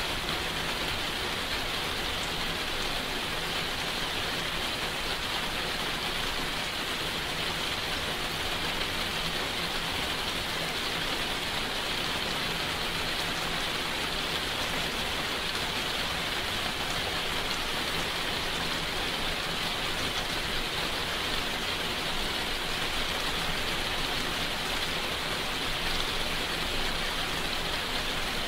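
Steady rainfall: an even, unbroken hiss of rain with no thunder or other separate sounds.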